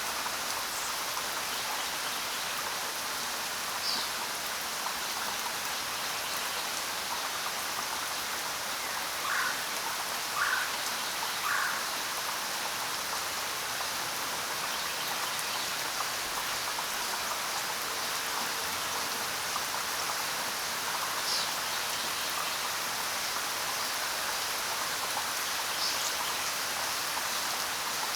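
Steady rain falling, with a few short, high bird chirps scattered through it, three of them about a second apart near the middle.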